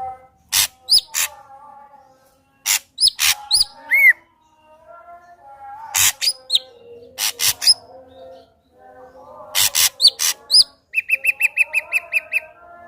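Ashy drongo singing in separate phrases of sharp clicks and short, bright whistled notes. About eleven seconds in comes a quick run of about ten repeated notes.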